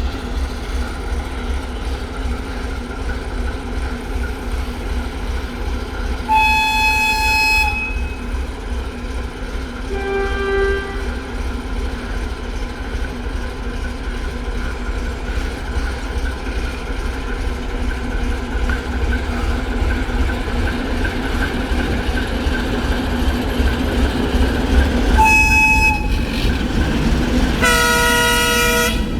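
ChME3 shunting diesel locomotive running with a steady low rumble, sounding its typhon horn. There is a blast of about a second and a half some six seconds in, a faint short lower tone around ten seconds, a short blast about 25 seconds in, and a longer, fuller, lower-pitched chord near the end.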